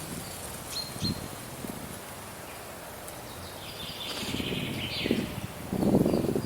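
Wind blowing in gusts, rumbling against the microphone about a second in and more strongly near the end, with small birds chirping in the background.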